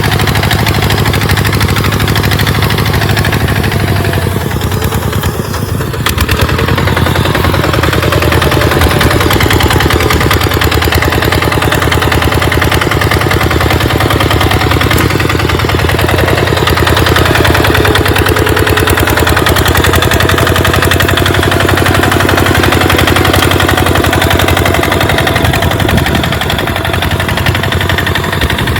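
Tractor engine running steadily with a rapid chugging while plowing sand, briefly dropping in level about five seconds in.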